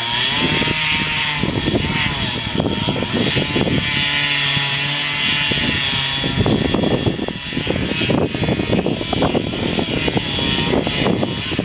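Chainsaw engine running at speed, its pitch rising and falling in the first few seconds as the throttle varies.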